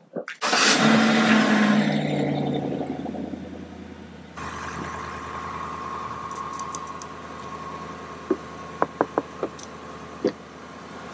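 Ford Mustang's engine starting: it catches about half a second in with a rev flare that settles over a few seconds into a steady idle. A few light clicks come near the end.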